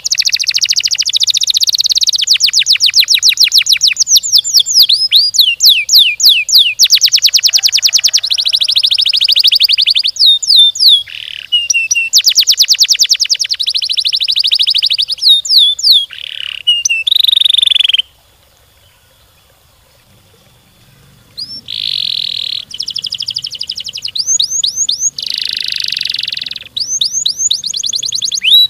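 Domestic canary singing long, very fast rolling trills of rapidly repeated notes, broken up by quick falling whistled sweeps. The song stops for about three seconds past the middle, then the trills resume.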